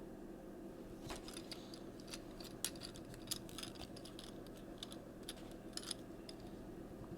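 Small plastic clicks and taps from a Transformers Siege Hound action figure as its parts are handled and moved during transformation. They come irregularly, over a faint steady hum.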